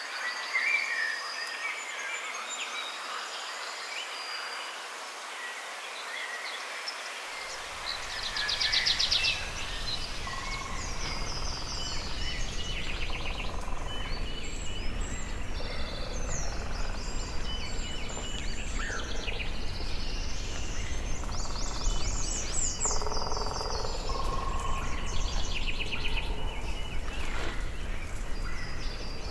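Woodland birdsong: several birds singing and calling in high trills and repeated notes over a steady background hiss. A low rumble joins about seven seconds in.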